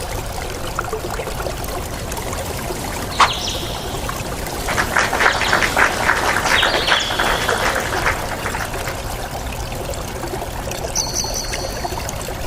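Water trickling and splashing steadily in a forest, with a few short high bird chirps and a single sharp click about three seconds in.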